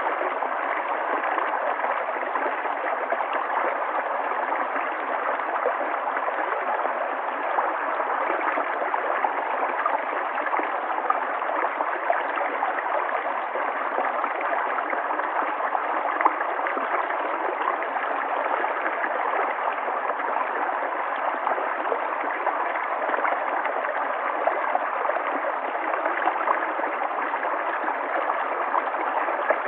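River water flowing steadily: an even, unbroken rush of running water that sits in the middle pitches, with no deep rumble and no high hiss.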